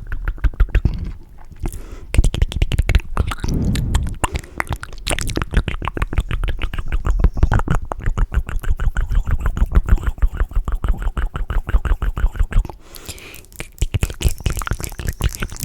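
Fast, wet mouth and tongue sounds made close to the microphone: rapid clicks and smacks, several a second, with a short lull about thirteen seconds in.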